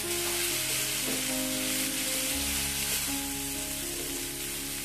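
Ground chili-and-shallot spice paste sizzling in hot oil in a nonstick frying pan as it is sautéed and stirred with a silicone spatula, over background music.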